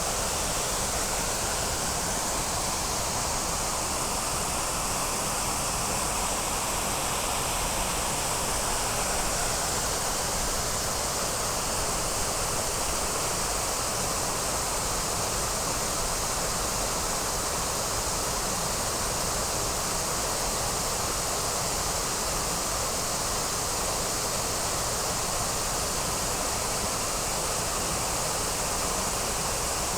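Waterfall or fast river water rushing, a steady even roar of falling water.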